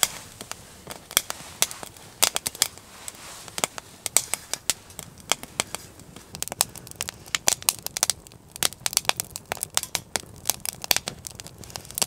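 Small wood fire in a hobo stove crackling, with a stream of irregular sharp pops; the kindling is somewhat damp.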